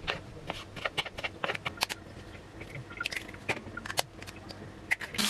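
A string of short, sharp clicks and taps at an irregular pace, a few a second.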